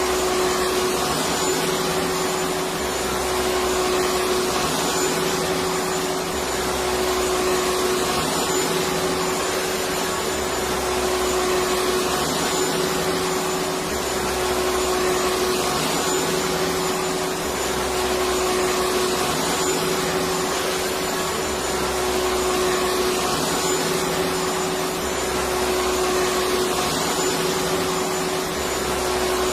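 Electric vacuum cleaner running steadily: a continuous motor whine over a broad airflow hiss, with a faint low pulse that recurs every few seconds.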